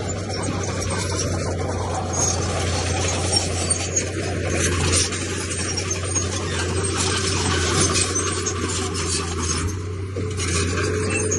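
Diesel engine of heavy earthmoving machinery running steadily under a continuous grating, scraping noise of rock and soil being moved.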